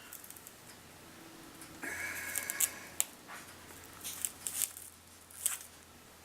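A hair-cleaning tool dragged between the bristles of a Roomba 650's brush roll, pulling off tangled hair: faint, irregular, short scratchy rasps.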